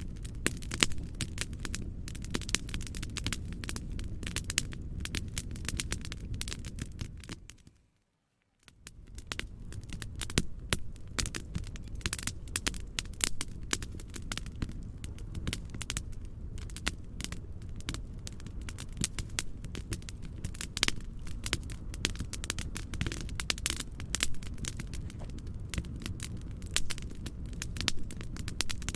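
Wood fire crackling, with frequent sharp pops over a steady low noise bed. About eight seconds in it fades out to silence for under a second and fades back in.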